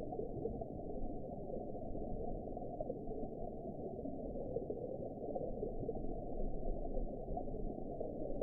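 Underwater sea ambience: a steady, muffled low water noise with nothing in the upper range and no distinct events.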